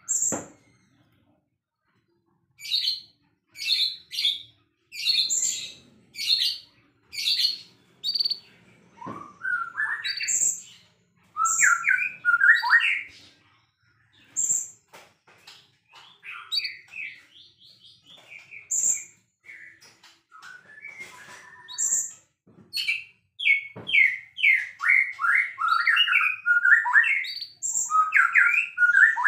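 White-rumped shama singing: a run of sharp, high notes about once a second, then rapid, varied warbling and whistled phrases.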